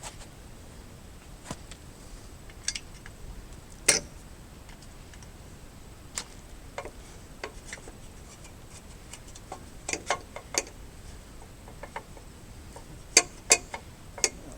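Scattered sharp clicks and knocks at irregular intervals, with louder strikes about four seconds in and three close together near the end.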